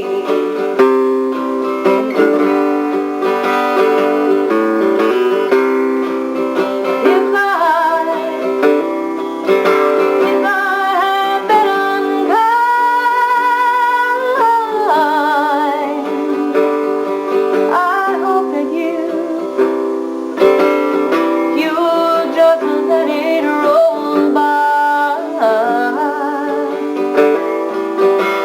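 Plucked guitar playing an instrumental passage between sung verses, with a high wavering held note about halfway through.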